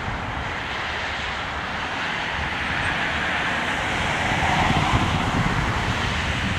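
Four CFM56 jet engines of a Finnair Airbus A340-300 at takeoff power, a steady roar that swells slightly about four seconds in, with wind buffeting the microphone.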